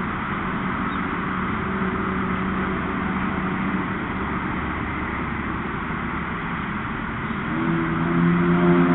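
Steady city traffic noise picked up by the nest camera's microphone, with a low engine hum that grows louder about three quarters of the way through as a vehicle comes closer.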